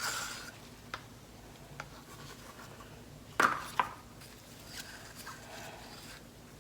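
Paint cups and bottles being handled while acrylic paint is mixed: a few light clicks, then a louder pair of knocks with a short scrape about three and a half seconds in, and faint scraping after.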